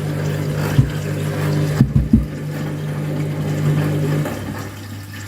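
Front-loading washing machine in its rinse: the drum motor hums steadily while the drum turns, with a few low thumps around one and two seconds in. The motor stops a little after four seconds in, leaving a quieter hum and the sound of water filling the drum.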